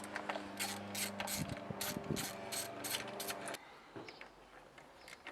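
Hand ratchet clicking in quick strokes, about three clicks a second, as bolts are worked loose, over a steady hum. Both stop about three and a half seconds in.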